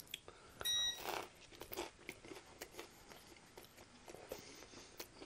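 A bite into a fried chicken sandwich, its crispy breading crunching about a second in, followed by soft chewing with small wet clicks and crackles.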